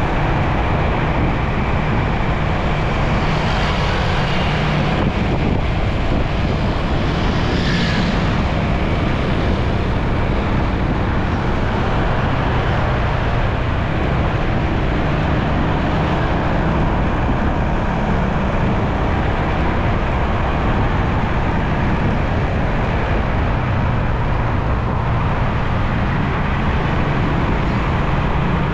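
Motorcycle riding through city traffic: the bike's engine running steadily under road and wind noise, with a brief higher sound about eight seconds in.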